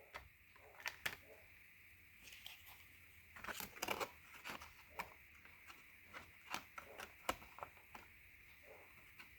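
Tarot cards being handled on a table: faint, scattered clicks and light rustles, busiest a few seconds in.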